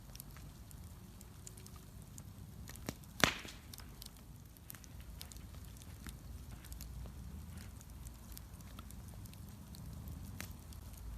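Bonfire crackling, with scattered small ticks and snaps and one loud sharp pop about three seconds in.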